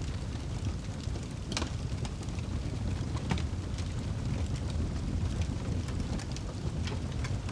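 Wood fire burning in a fireplace: scattered sharp crackles and pops over a steady low rumble of the flames. The clearest pops come about one and a half and three and a half seconds in.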